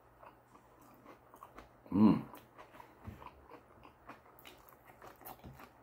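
Close-up chewing and wet mouth clicks of a person eating sushi. About two seconds in there is one short hum of the voice.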